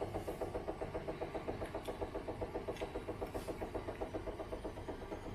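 Zanussi IZ 16 S washing machine on a hard spin: the drum's rotation gives a fast, regular knocking pulse over the motor's hum. The owner puts part of the knocking down to the shock absorbers.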